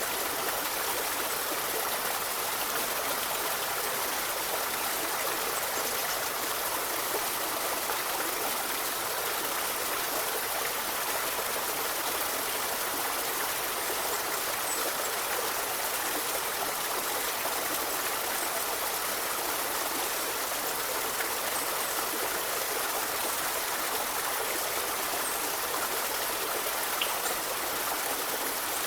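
River water flowing: a steady, continuous rush and babble of running water.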